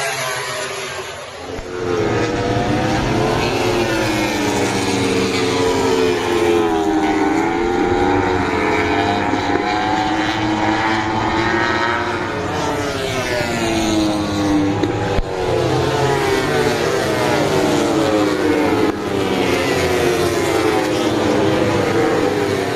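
MotoGP racing motorcycles' four-cylinder engines at high revs, their pitch climbing and dropping again and again with gear changes and braking. The sound steps up about a second and a half in and stays loud.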